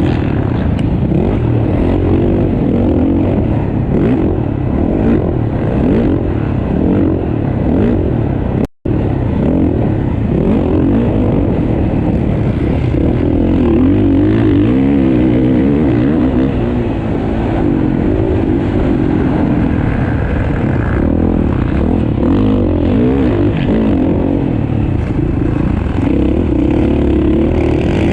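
Several motocross bikes racing, their engines revving up and down through the gears and overlapping one another. The sound cuts out completely for a split second about a third of the way in.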